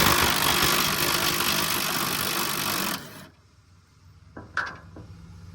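A power tool runs with a loud, even rattle and cuts off suddenly about three seconds in, followed by two short clicks.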